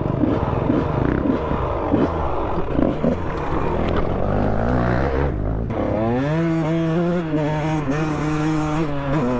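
Two-stroke engine of a 1999 Honda CR125R dirt bike revving up and down unevenly over rough trail, dropping low about five seconds in. It then rises and holds a high, steady rev, pulling in second gear, and eases off near the end.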